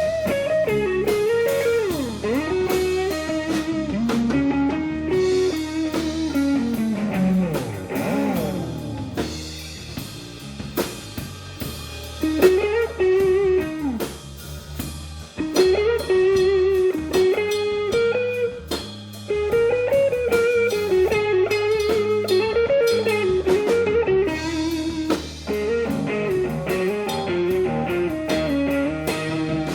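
Blues band playing an instrumental break: a lead electric guitar solo with many string bends, over drums and a steady low accompaniment.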